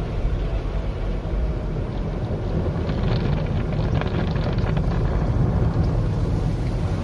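Automatic car wash running, heard from inside the car: a steady low rumble of machinery and water, with a patch of scattered crackling splashes about halfway through.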